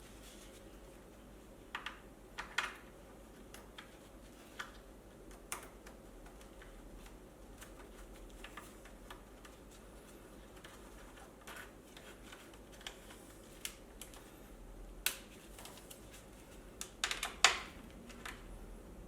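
Scattered light clicks and knocks of tools and small parts being handled during hands-on mechanical work, irregular and spaced out, with a cluster of sharper knocks near the end.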